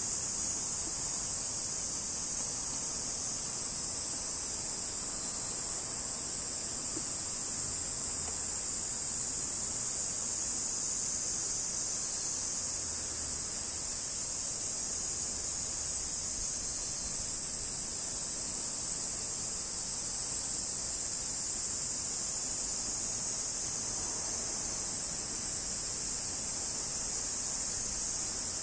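Large brown cicada (aburazemi, Graptopsaltria nigrofuscata) singing one steady, unbroken high-pitched buzz.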